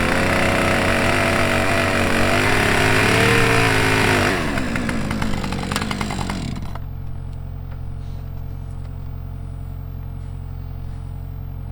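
Chainsaw running at high throttle with a wavering pitch. About four seconds in it eases off, and by about seven seconds it has dropped to a steady idle.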